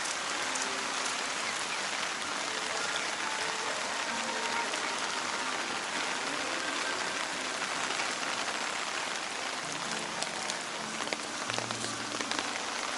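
Heavy typhoon rain falling steadily, an even hiss with no let-up.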